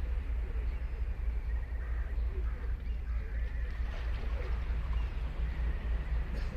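Surf on a sandy beach: a steady low rumble of waves, with a few faint bird calls in the middle and near the end.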